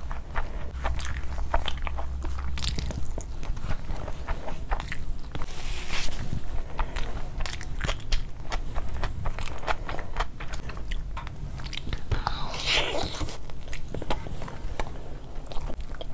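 Close-miked mouth sounds of a person eating fried rice and chicken with her hands: wet chewing and lip smacking, with many quick, irregular sticky clicks.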